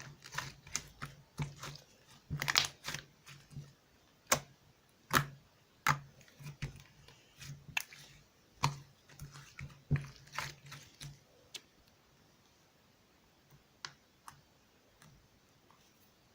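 Chewy slime being squeezed and poked by hand, giving irregular sharp clicks and wet pops, busy for most of the time and only a few scattered clicks near the end.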